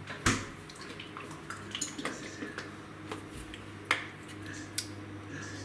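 Kitchen clatter: a few sharp clicks and knocks of dishes or utensils being handled, the loudest about a third of a second in and again near four seconds, over a low steady hum.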